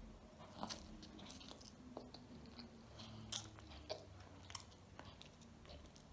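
A child faintly chewing ramen noodles and sausage, with soft wet mouth clicks and smacks every second or so.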